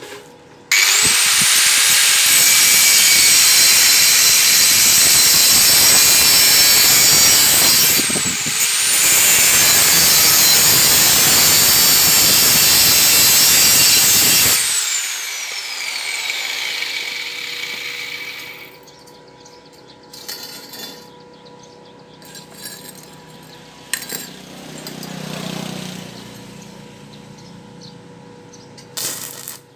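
An electric high-speed disc tool spins up with a high whine and grinds or cuts iron for about fourteen seconds, easing briefly midway, then is switched off and winds down with a falling whine. A few light knocks of metal pieces follow.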